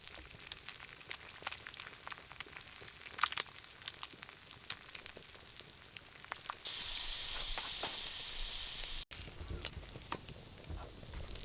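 Food frying in a hot iron pan over a wood fire, with scattered sharp pops and crackles. Partway through, a louder steady sizzle runs for about two seconds and cuts off abruptly.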